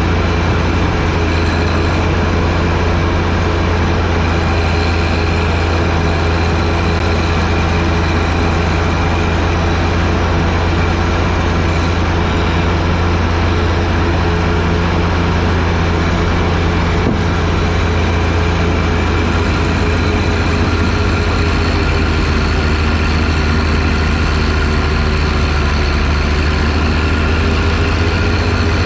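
John Deere 1025R sub-compact tractor's three-cylinder diesel running steadily at working speed while clearing snow with its front-mounted snowblower. The pitch sags slightly for a few seconds about three-quarters of the way through.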